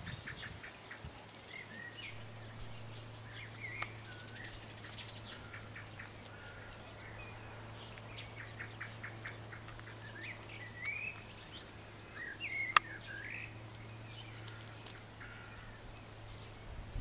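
Songbirds chirping and singing, with quick series of ticking notes and short whistled glides, over a steady low hum. A sharp click stands out about thirteen seconds in, with a fainter one about four seconds in.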